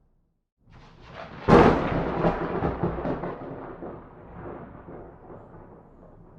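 A thunderclap. After a brief moment of dead silence a rumble builds, then a sharp loud crack comes about a second and a half in, followed by a rolling rumble that slowly fades.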